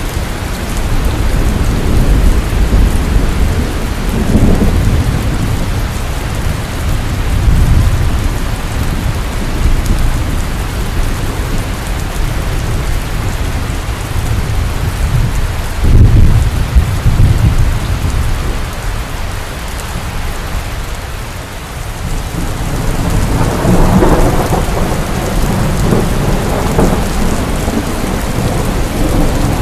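Heavy rain falling steadily with rolling thunder. Deep rumbles swell in the first several seconds, a sudden louder thunderclap breaks about halfway through, and another roll of thunder builds near the end.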